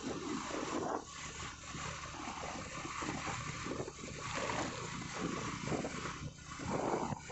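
Wind buffeting a helmet or body-mounted microphone on a moving motorcycle, gusting unevenly, with the engine running steadily underneath.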